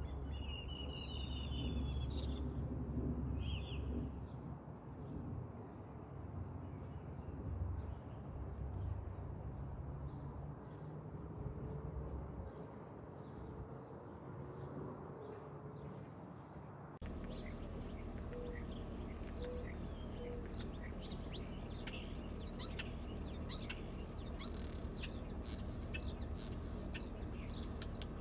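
Wild birds chirping and calling, with many short, high chirps that grow busier after an abrupt cut partway through. Soon after the cut come three short, low hooting notes.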